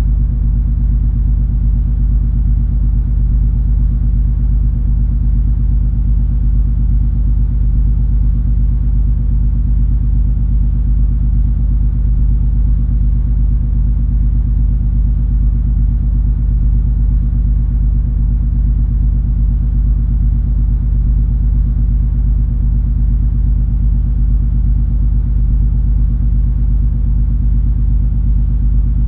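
Steady low drone of the cruise ferry MS Color Magic under way: a deep engine rumble with a steady hum of several tones and fainter hiss above, unchanging throughout.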